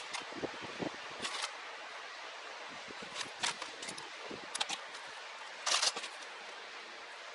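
Scattered short clicks and rustles from hands handling plastic parts and wiring harnesses over a steady hiss. There is a brief louder rustle about six seconds in.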